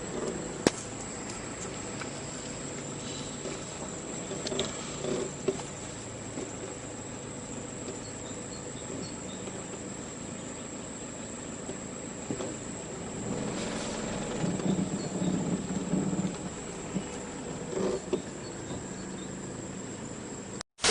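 A vehicle engine running under a steady high-pitched tone, with a sharp click under a second in and louder low rumbling from the engine a little past the middle.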